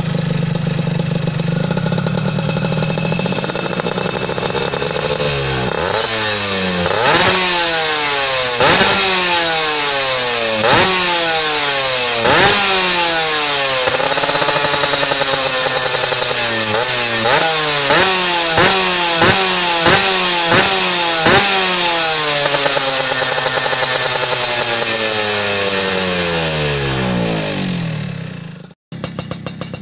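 Yamaha F1ZR's two-stroke single-cylinder engine through an open racing exhaust, idling and then blipped hard again and again, each rev shooting up in pitch and dropping back, the blips coming quicker in the middle. Near the end a last long rev dies away and the sound cuts off suddenly.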